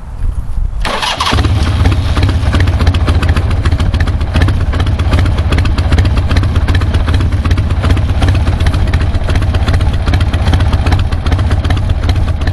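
Carbureted motorcycle engine started about a second in, catching at once and then idling steadily with a low, even note. It runs nice and idles, but it sputters when a load is put on it, as if something is in the fuel line.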